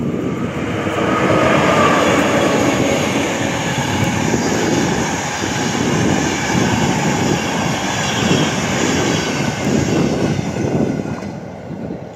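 Locomotive-hauled passenger train rolling past, a steady rumble of wheels on rails that eases off near the end.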